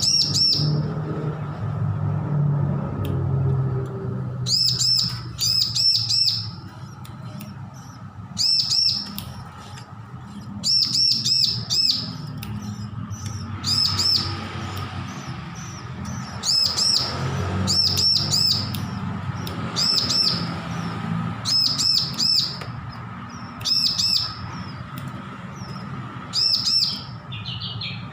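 Bar-winged prinia (ciblek) chirping: short clusters of two to four sharp, high chirps repeated every second or two, over a low steady hum.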